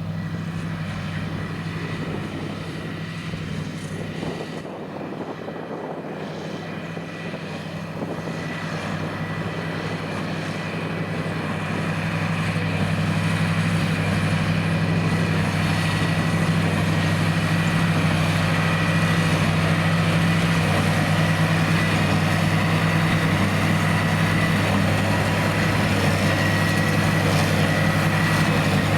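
John Deere 8330 tractor's six-cylinder diesel working steadily under load while towing a Krone BigPack square baler that is baling straw, a continuous mechanical drone with a thin steady whine over it. It grows louder about a third of the way in as the rig comes closer, then holds steady.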